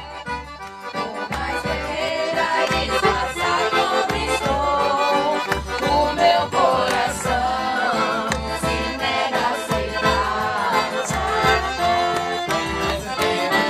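Accordion music with a steady, regularly pulsing bass beat.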